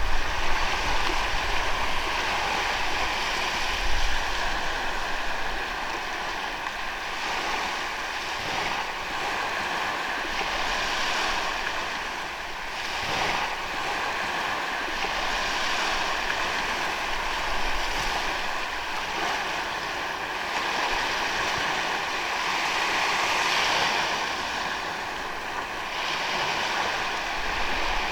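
Ocean waves breaking and washing onto a sandy beach, a steady wash of surf that swells and eases every few seconds.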